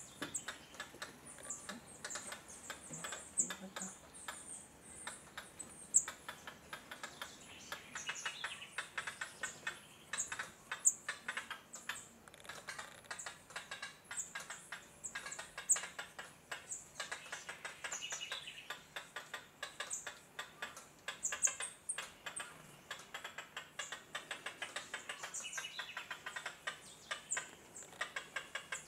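Birds chirping with short, high calls, over a steady run of quick, sharp clicks.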